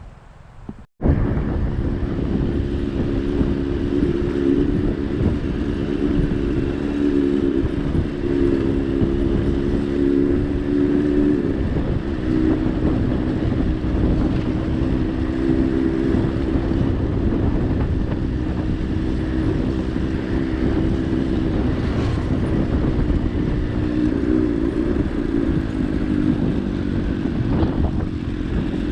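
A motor vehicle engine running steadily, with heavy wind rumble over it. It starts abruptly about a second in.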